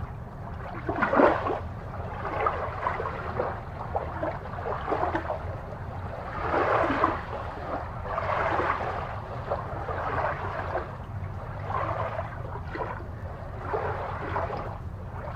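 Aquarium water bubbling and gurgling in irregular bursts over a steady low hum.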